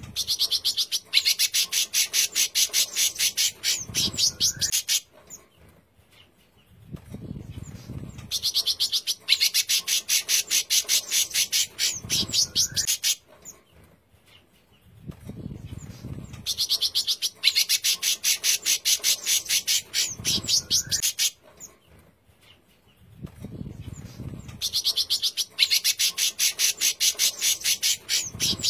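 A songbird giving a harsh, rapid chattering trill (a 'besetan' call), repeated as bird-training audio. Each phrase lasts about four seconds and opens with a softer lead-in, and the phrase comes round again about every eight seconds, four times over.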